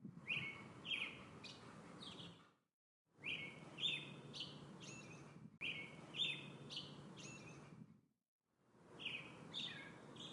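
Birds chirping: short, sharp, downward-sliding calls repeated several times over a low steady background hiss. The sound cuts out to silence twice for about half a second, as if separate recordings were joined.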